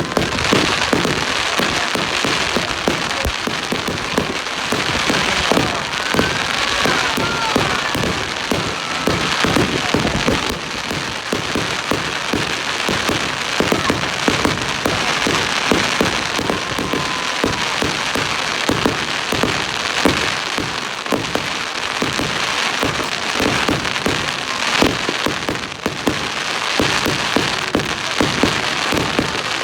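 Fireworks going off in a dense, continuous crackle of many small rapid bangs over a steady hiss.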